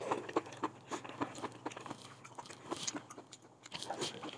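A person chewing food close to the microphone: a run of short, irregular wet clicks and smacks, about three a second.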